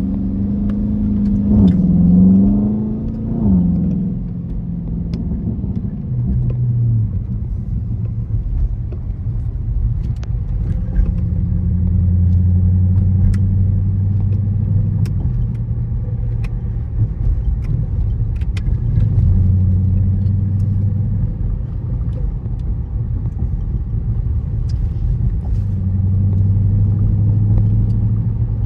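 Dodge Charger SRT 392's 6.4-litre HEMI V8 running while driving. The engine pitch climbs and drops twice in the first four seconds, then settles into a steady low drone that swells a few times.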